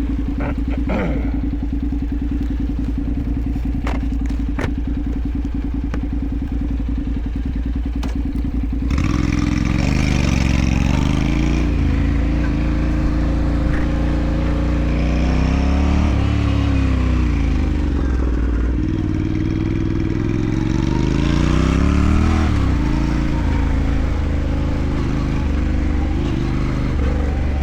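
Motorcycle engine idling with a few sharp clicks. About nine seconds in it pulls away and accelerates, its pitch rising and then dropping back with each gear change, several times over.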